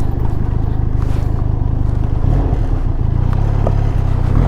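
Benelli TRK 502's parallel-twin engine running steadily while the motorcycle is ridden.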